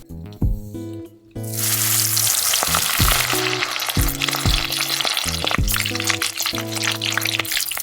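Food frying, sizzling hard, starting suddenly about a second and a half in, with background music with a steady beat underneath.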